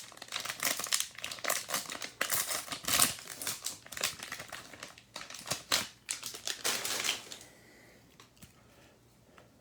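Crinkling and crackling of a trading card pack's plastic wrapper being torn open and handled. It stops about seven seconds in.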